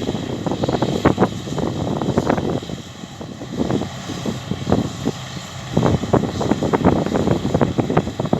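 Massey Ferguson combine harvester running as it works the field, heard through heavy, irregular wind buffeting on the microphone.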